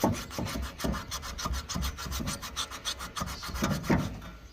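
Crumpled tin foil soaked in Coca-Cola being scrubbed rapidly back and forth over a rusty chrome exhaust tailpipe, a quick run of gritty scratching strokes as the rust is rubbed off.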